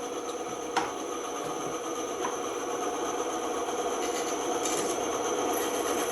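Band saw running steadily with a constant hum, with a sharp click about a second in.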